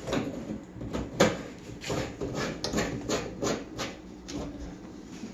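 Plastic sink drain pipework being handled and a slip nut hand-tightened: irregular small plastic clicks and knocks with rubbing, the sharpest about a second in.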